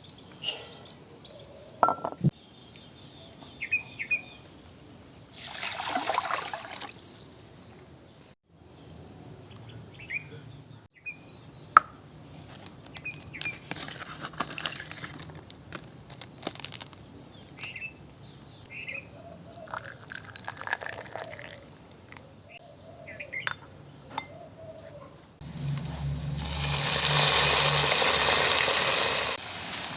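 Outdoor cooking sounds: scattered clicks and knocks of utensils and a brief pour of liquid, with birds chirping now and then. Near the end comes a louder hiss lasting about four seconds, in keeping with food frying in a hot pan.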